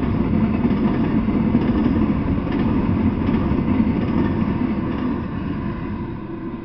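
Double-stack intermodal freight train rolling past: a steady rumble of steel wheels on rail with a few faint clicks, fading over the last second or two as the end of the train goes by.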